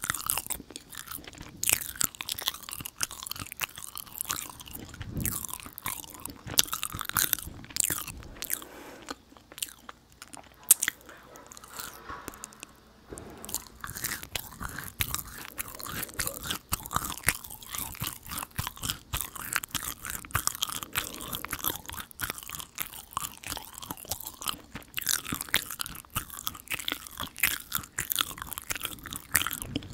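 Close-miked eating of chewy dried jujube sweets: sticky chewing with wet mouth clicks and small crunches. The chewing eases off for a few seconds about a third of the way through, then picks up again.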